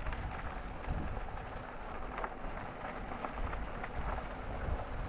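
Steady rushing noise with a low rumble from riding an e-bike: wind buffeting the microphone and tyres rolling on the trail, with a few faint ticks.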